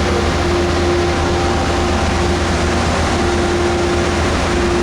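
Diesel passenger-train locomotive standing at the platform with its engine running: a steady low rumble with a constant droning tone over it.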